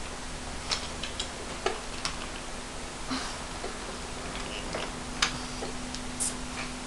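Irregular small clicks and knocks, like wooden toy trains and track pieces being handled and coupled, over a faint steady hum.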